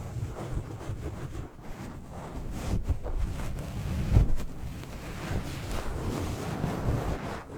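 Sleep-aid ambience of rushing wind and ocean waves, an uneven noise heaviest in the low end. It swells through the middle, then eases off again.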